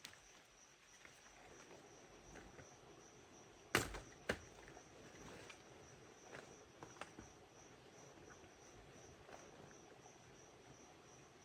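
Faint, steady high-pitched insect chirring, cricket-like, with a couple of sharp knocks about four seconds in and a few lighter clicks.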